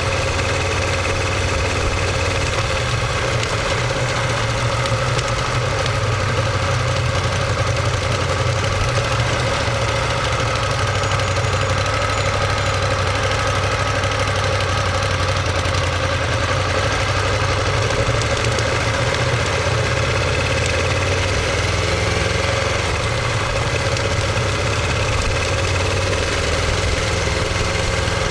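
Ducati Monster 1200S's 1198 cc L-twin engine running at a steady, unchanging engine speed, heard through its exhaust with the microphone close to the muffler.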